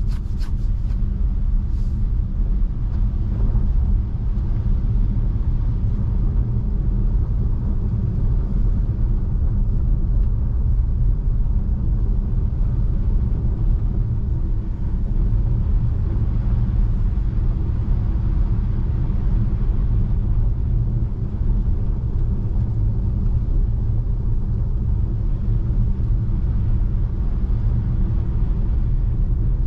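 Steady low road and tyre rumble of a Tesla Model 3 rolling on a snow-covered road, with no engine note.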